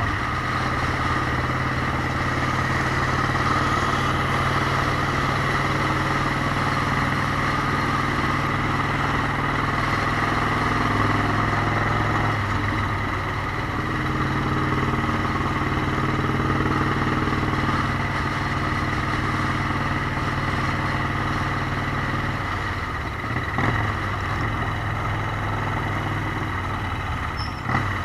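Motorcycle engine running steadily under way. Its note shifts about twelve seconds in and changes again a few seconds before the end.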